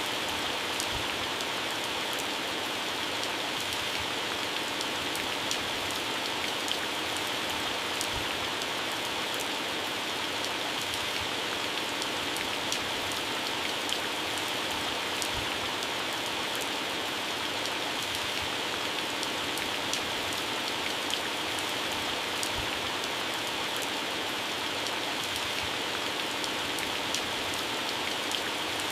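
Heavy rain falling steadily on garden plants and grass, a dense even hiss with many single drops ticking on leaves.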